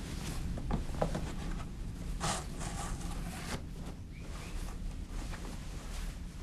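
Soft rustling and light clicks over a low steady hum, with the loudest rustle a little over two seconds in.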